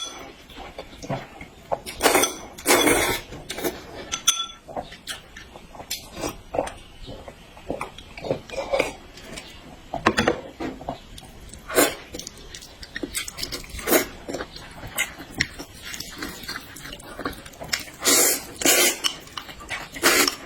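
Close-miked eating: utensils clicking and scraping against dishes, with chewing and slurping. A few louder bursts come about two seconds in and again near the end.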